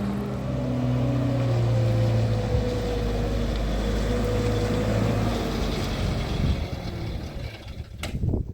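A motor vehicle's engine running steadily, a low drone that weakens about two-thirds of the way through and fades near the end, where a single sharp knock is heard.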